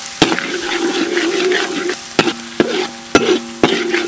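Metal ladle stirring finely chopped aromatics frying in oil in a steel wok: a steady sizzle, with the ladle knocking sharply against the wok about five times, mostly in the second half.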